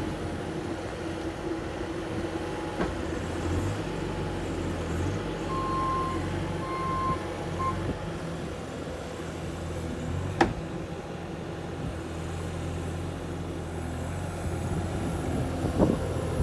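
Vehicle engine idling steadily, with a few short electronic beeps about six to eight seconds in and a sharp click about ten seconds in.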